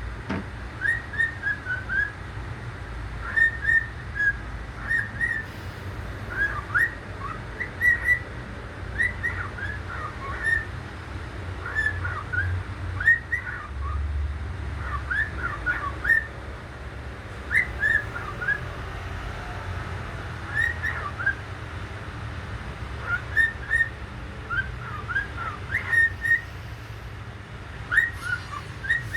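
Pet bird whistling: runs of short, quick whistled notes sliding up and down, in phrases with brief pauses, over a steady low hum.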